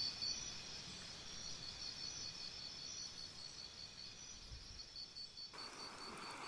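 Faint background ambience of insects, likely crickets, chirping in a steady, even pulse. About a second before the end, a faint rushing hiss takes over.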